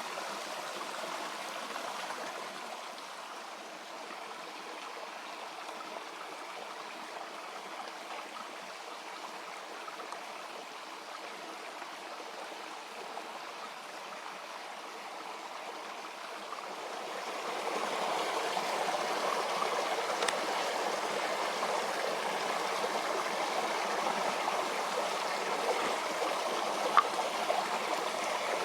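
Creek water flowing in a steady rush, which gets louder about two-thirds of the way through.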